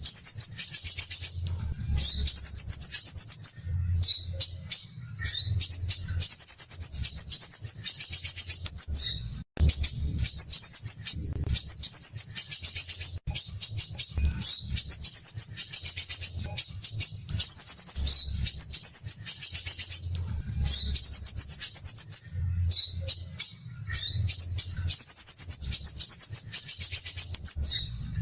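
Crimson sunbird (sepah raja) singing dense, harsh, rapid high-pitched trills in phrases of a second or two, separated by short breaks.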